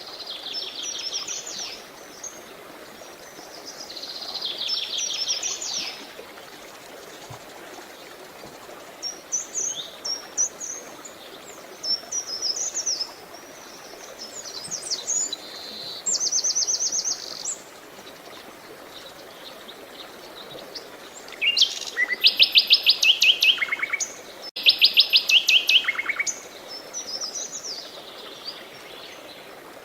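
Songbirds singing, phrase after phrase of high chirps and fast trills, over a steady rush of flowing water. The loudest, most rapid trills come about two-thirds of the way through.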